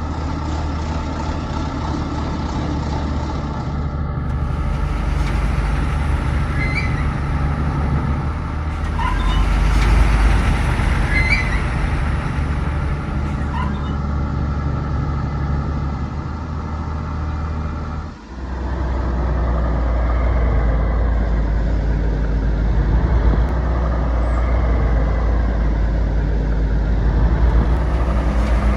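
Steady truck-like engine running from RC model heavy equipment, a low hum with a few faint high squeaks. About two-thirds of the way through it cuts out briefly, then carries on slightly louder.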